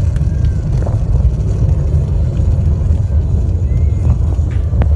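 Falcon 9 rocket's nine first-stage Merlin engines heard during ascent as a loud, steady, deep rumble.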